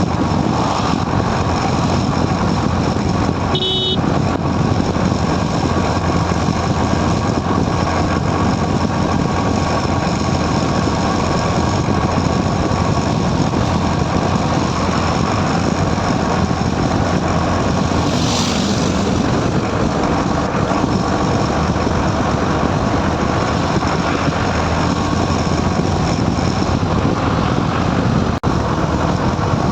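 Motorcycle riding along a highway: steady engine and road noise, with a short high beep about four seconds in.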